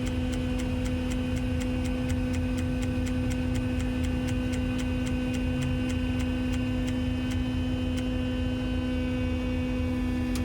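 A steady, even-pitched hum over a low engine rumble, with a regular ticking about four times a second that stops about three-quarters of the way through; the hum is from the running Grove crane's machinery or a cab signal during a lift.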